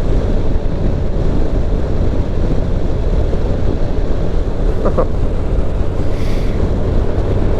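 Motorcycle engine running steadily on the move under heavy wind rush over the microphone.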